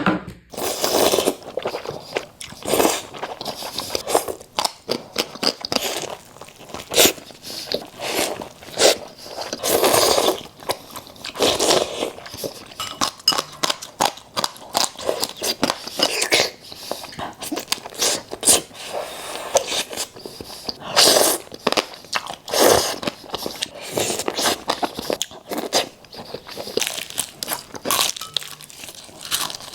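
A person biting and chewing crunchy food, a run of irregular crunches several a second.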